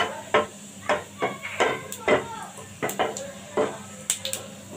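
Cumin seeds crackling and popping in hot mustard oil in a frying pan as they are tempered: an irregular string of about a dozen sharp pops.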